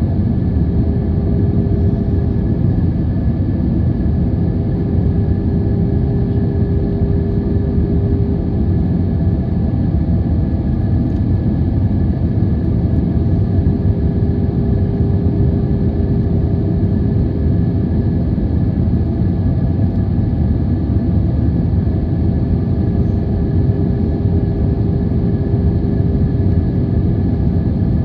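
Boeing 737-800's CFM56 jet engines running, a steady loud rumble with a constant hum.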